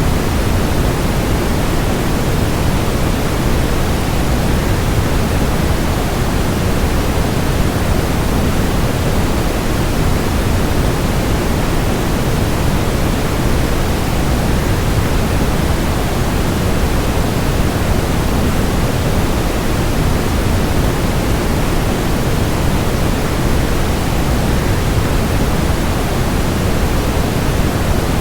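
Waterfall rushing steadily: an even, unchanging wash of water noise, heaviest in the low end, with no breaks or changes.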